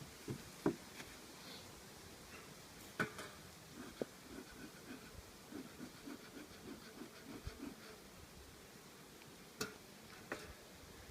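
Faint handling noise: a few sharp clicks and, in the middle, a run of soft, evenly spaced thumps about two or three a second.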